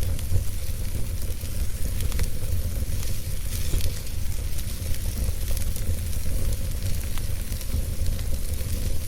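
Wood fire burning: a steady hiss with scattered small crackles and pops, over a constant low rumble.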